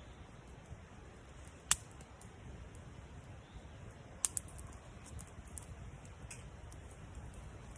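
Campfire wood crackling with scattered small ticks and a few sharp pops: one a little under two seconds in and two close together about four seconds in, over a steady low rumble.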